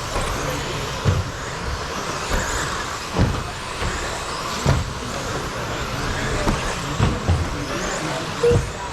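A pack of 1/10-scale electric stadium trucks with 13.5-turn brushless motors racing on a carpet track: a steady whir of motors and tyres, broken by several sharp knocks.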